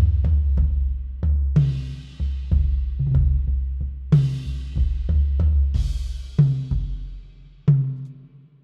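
A sampled acoustic drum kit played with mallets loops a beat: low ringing kick and tom hits, with swelling cymbal washes about every two seconds. It runs through a delay-with-distortion preset that overdrives it a little, and the sound fades away near the end.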